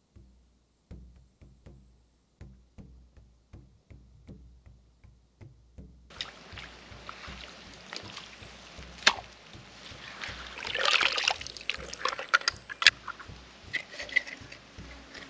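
Creek water sloshing as someone reaches and wades into deep water feeling for mud mussels, a soft slosh about twice a second. From about six seconds in there is louder splashing with sharp clicks, loudest a little past the middle.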